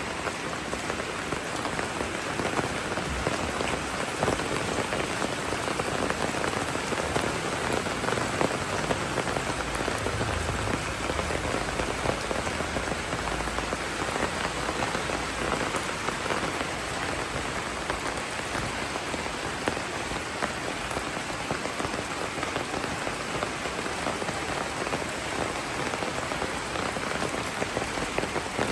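Steady rainfall, an even dense hiss made up of countless small drop hits, holding constant throughout.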